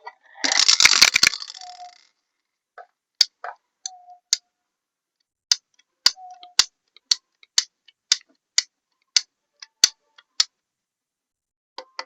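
A short crackling crunch about half a second in, then a run of sharp, light clicks and taps of small hard objects, about two a second.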